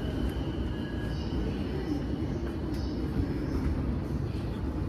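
Inside a JR East E233 series 5000-subseries electric train: a steady low rumble of the car running on the track.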